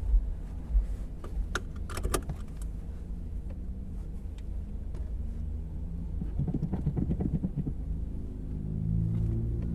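Cabin sound of a 2014 Volkswagen Jetta Clásico on the move: a steady low road and engine rumble, with a few light clicks and rattles about two seconds in. A rougher rumble comes about halfway through, and near the end the engine's hum grows louder.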